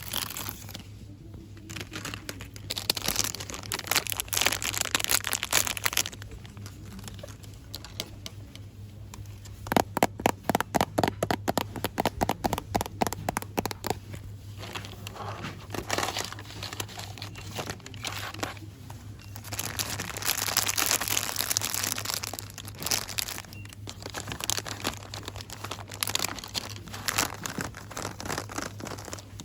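Crinkling and rustling of store-bought packaging handled close to the microphone, ASMR-style. About ten seconds in there is a run of fast taps, roughly six a second, for several seconds. A steady low hum runs underneath.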